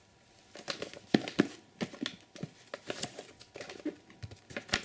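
Crinkling, rustling and light knocks of firework-cake packaging being handled and moved, in an irregular run of sharp crackles.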